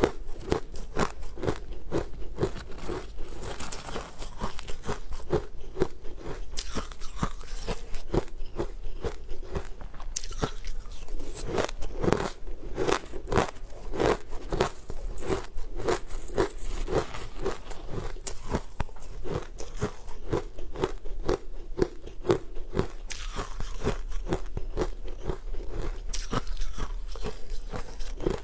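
Close-miked crunching and chewing of a crunchy green crumbled sweet, a steady run of crisp crunches about two or three a second.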